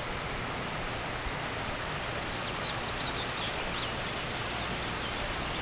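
Small birds chirping faintly in a string of short high calls starting a little over two seconds in, over a steady hiss of outdoor background noise.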